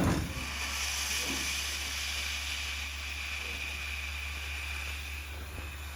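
Steam hissing steadily inside the cab of a wood-fired steam locomotive, over a low steady hum. A louder gush of steam dies away in the first half second.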